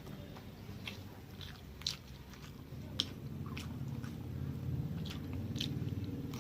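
A person chewing food close to the microphone, with scattered wet mouth clicks and smacks.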